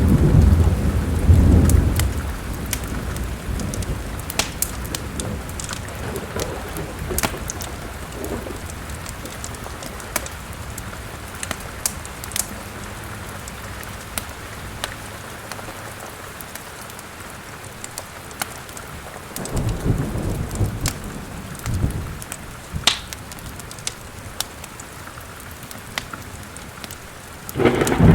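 Steady rain with rolls of thunder: one fading out at the start, another about two-thirds of the way in, and a louder one starting just before the end. A wood fire in a fireplace crackles and pops throughout.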